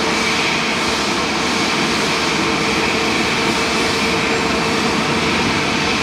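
Jet airliner's engines running, a steady noise with a held whine that does not rise or fall.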